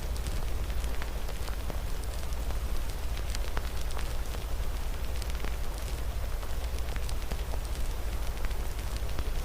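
Wood fire crackling, with irregular sharp pops, over a steady hiss of falling rain.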